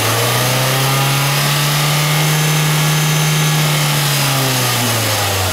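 Car engine revved by hand at the throttle and held at a raised, fairly steady speed, dropping back toward idle near the end.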